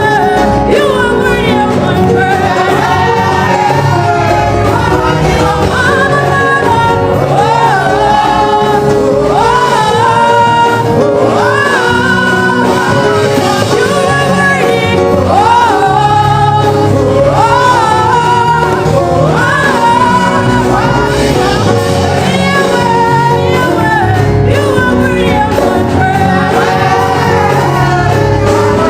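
Gospel worship singing with instrumental accompaniment: sung melody lines over a steady low bass part.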